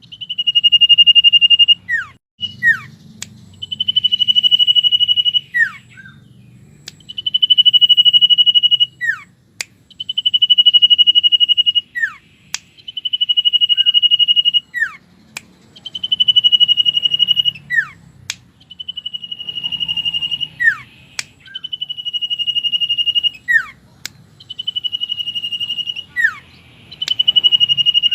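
Common iora (cipow/sirtu) singing over and over: each phrase is a long, steady, high whistle of about a second and a half, followed by a few sharp downward-sweeping notes and clicks. The phrase repeats roughly every three seconds, about nine times.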